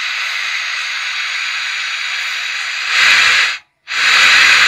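Loudspeaker driven by a repaired 4440 IC amplifier board giving out a steady FM radio hiss, a sign that the amplifier is passing sound again. The hiss swells louder shortly before 3 seconds in, cuts out briefly near 4 seconds, then comes back loud.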